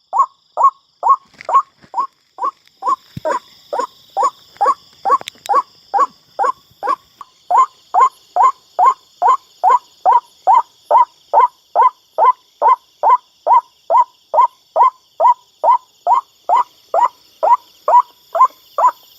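White-breasted waterhen (ruak-ruak) calling over and over, a steady rapid series of short notes that fall in pitch, a little over two a second.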